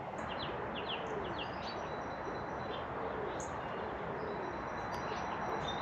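Small songbirds calling in yew trees: a string of short, high chirps, thickest in the first couple of seconds, with a couple of faint low calls, over the steady hum of distant road traffic.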